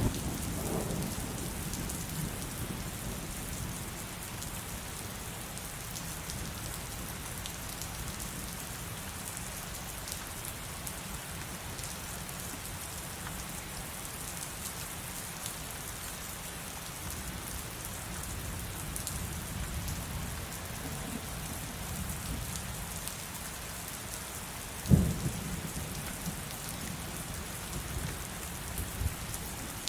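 Heavy rain falling steadily. A thunder rumble dies away in the first couple of seconds, and a sudden thunderclap about 25 seconds in is followed by low rumbling.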